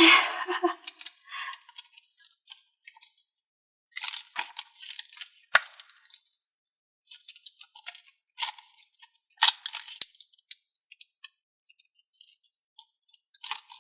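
Stiff HyperColor thinking putty squeezed and kneaded in the hands, giving off irregular crackling and clicking, with sharper clicks about five and a half and nine and a half seconds in.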